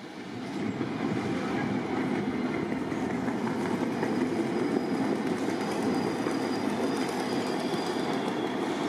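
Passenger train rolling slowly into a station: a steady rumble of wheels on the rails that gets louder about a second in, with faint high-pitched wheel squeal from about three and a half seconds in.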